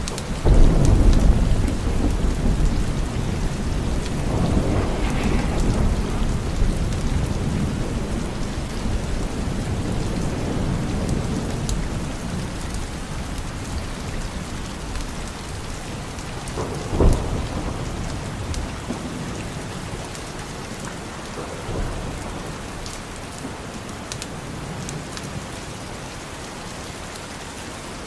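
Steady rain with thunder: a loud clap just after the start that rumbles on for several seconds, a sharper crack a little past the middle, and a fainter rumble soon after.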